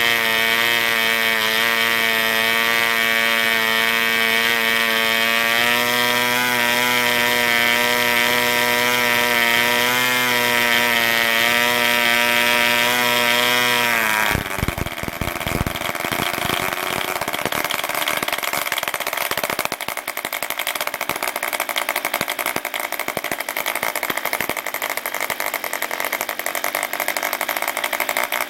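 RGU 2.5 cc two-stroke model diesel engine running fast with a steady high-pitched whine that wavers slightly. About halfway through, the pitch drops abruptly and it runs on rough and uneven.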